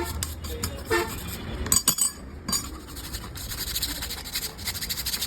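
A short horn-like toot about a second in, among scattered metallic clicks, then fast, even rasping strokes near the end.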